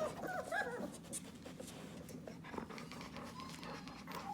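Four-week-old puppies squeaking and whimpering in short high calls that bend up and down for about the first second, then small scratching and shuffling sounds with light clicks.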